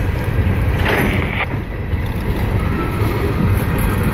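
Loaded coal train's gondola cars rolling slowly past at close range: a steady heavy low rumble from the wheels on the rails, with wind buffeting the microphone. A short higher-pitched scraping noise comes about a second in.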